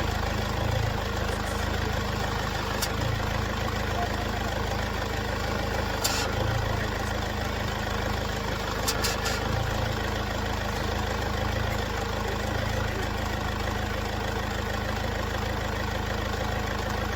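Mercedes W204 engine idling evenly, with a few light clicks. The accessory belt runs on a new tensioner pulley and alternator freewheel pulley, and the power steering pump makes no noise.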